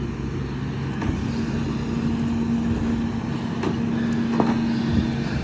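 Garbage truck running with a steady low hum, with a few short knocks and clatters over it.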